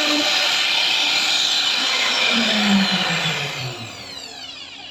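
CNC router spindle running at high speed, then switched off and winding down, its whine falling in pitch and fading over the last second or so.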